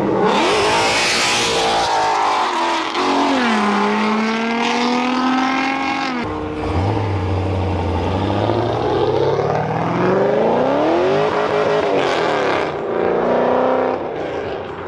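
Car engines revving hard under acceleration, their pitch climbing and dropping as they rev and shift. There is an abrupt switch to a different run about six seconds in, then a fresh rising rev near the end.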